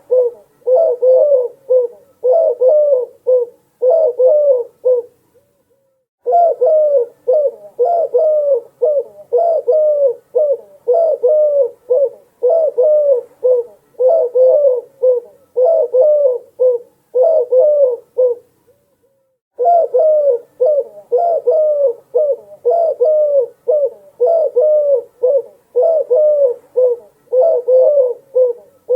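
Dove cooing: long runs of quick, repeated low coo notes, about two a second, broken by short pauses twice.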